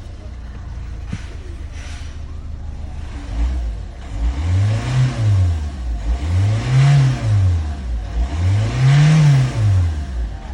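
Kia Rondo 2017 engine idling, then revved three times, each rev rising and falling smoothly over about two seconds. The car is running again after its ECU was repaired for a no-start fault.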